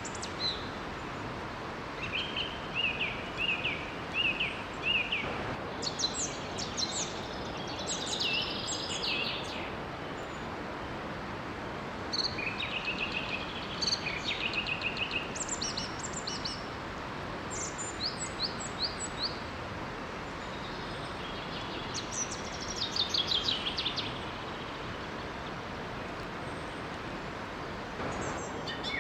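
Songbirds singing in bursts of quick repeated chirps and trills, with pauses between, over the steady rush of a small waterfall.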